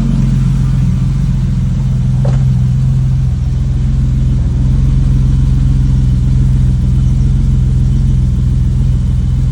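BMW 735i's straight-six engine idling steadily after a cold start, a deep even hum that grows slightly louder about three and a half seconds in.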